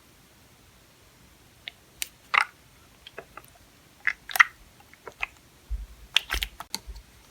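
Purple slime being handled: irregular wet clicks and pops as it is pressed and pulled, with a few more closely bunched near the end.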